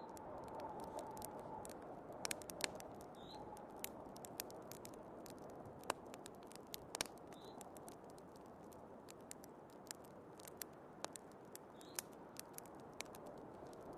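Wood fire crackling, with sharp irregular pops and snaps over a steady low rush of blizzard wind.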